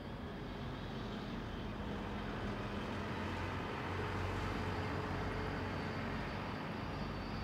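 Distant electric train approaching along the line, a steady low hum with outdoor background noise that grows slowly louder.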